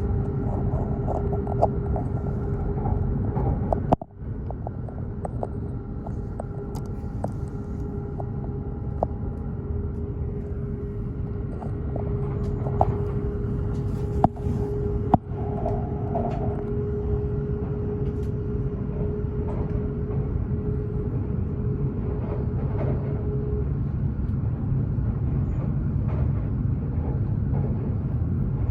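Steady low rumble inside the passenger cabin of a Hokuriku Shinkansen train, with a steady hum over it that stops about 24 seconds in and a few faint clicks.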